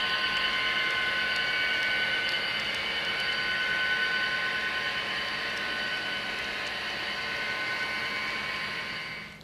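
HO-scale model train running on the layout: a steady mechanical whine with several high steady tones over the hum of wheels on track. It cuts off suddenly near the end.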